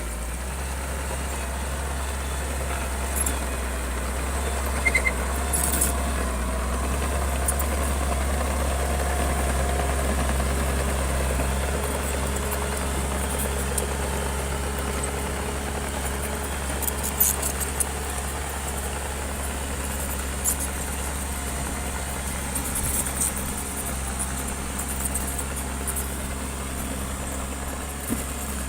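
Bulldozer's diesel engine running steadily, a little louder for a few seconds near the start, with short sharp clicks now and then, clustered around five and seventeen seconds in.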